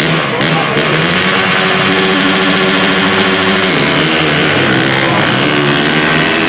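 Two 226 to 450cc drag motorcycles racing down a dirt strip, engines at full throttle. The pitch climbs steadily, drops a little past the middle as the bikes shift up, then climbs again.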